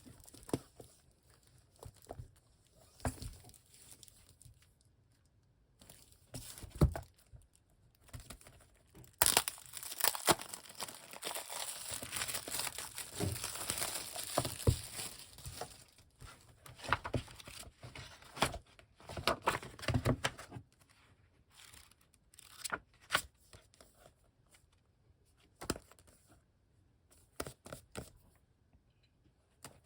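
Packaging being torn open and crinkled by hand, with scattered taps and knocks of books being handled. The longest stretch of tearing and rustling comes about a third of the way in.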